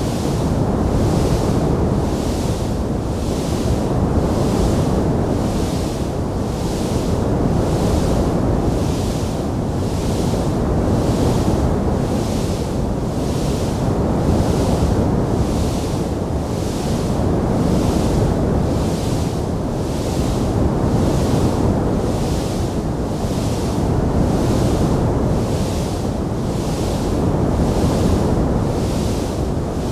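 Steady low rushing noise of a fireplace sound track, with a high hiss that swells and fades about once a second and no distinct crackles.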